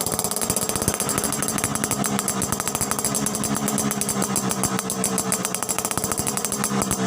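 Suzuki Tornado GX two-stroke motorcycle engine idling through an aftermarket exhaust with an Alfa-style silencer insert. It is a steady, fast, even rattle of exhaust pulses, the crisp ringing "ngencring" tone sought from this kind of silencer.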